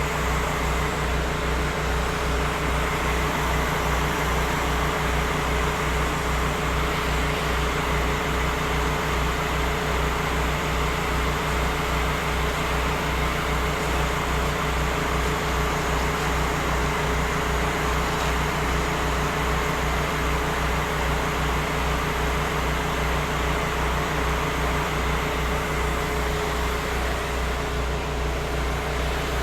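Small petrol engine of a pressure-washing rig running steadily, with an even hiss over it.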